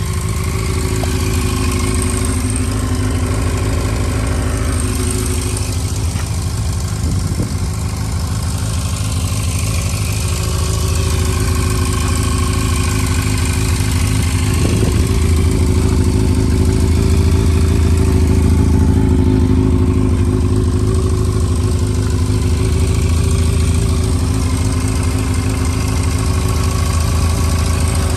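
Yamaha FZ400's inline-four engine idling steadily through an aftermarket Moriwaki ZERO exhaust, growing a little louder past the middle.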